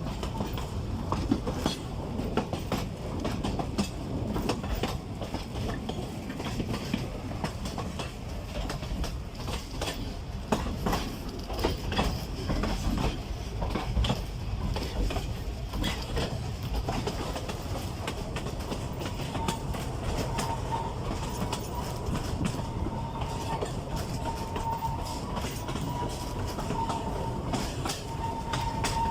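Narrow-gauge forest railway train running on the track: a steady rumble with wheels clicking irregularly over the rails. In the last third, a thin high squeal comes and goes.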